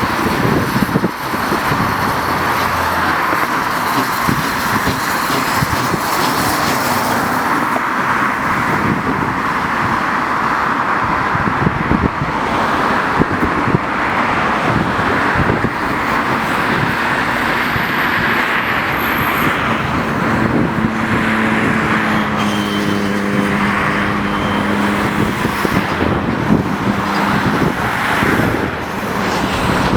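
Heavy road traffic from a busy major road: a continuous rush of passing vehicles. About two-thirds of the way through, a steady low droning engine tone joins in.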